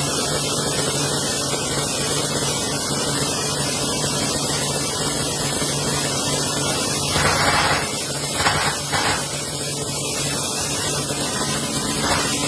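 Steady hissing noise over a low machine hum, with a few louder surges of hiss about seven, eight and a half and twelve seconds in.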